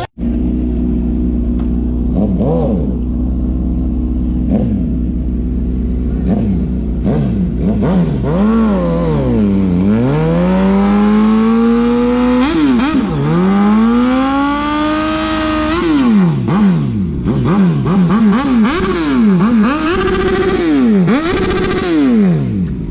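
Sportbike engine revving, its pitch climbing and falling again and again through the whole stretch, with a long rise held steady near the middle and quick up-and-down sweeps near the end. A steady low rumble runs underneath.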